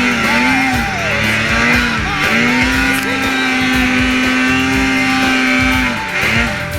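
Two-stroke snowmobile engine running at high revs, its pitch held mostly steady with a couple of brief dips as the throttle eases and comes back on.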